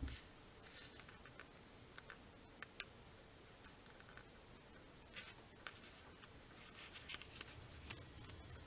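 Small scissors snipping a slit in a headphone ear cushion: faint, irregular clicks with short gaps, a few coming in quick little groups.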